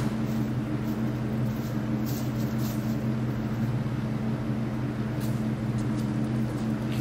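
An engine running steadily at a constant speed, with an even low hum that does not change.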